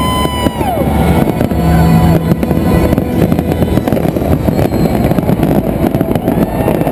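Fireworks going off in rapid succession: a dense, continuous run of bangs and crackles. In the first second a high, held tone with overtones sounds over them and then drops away.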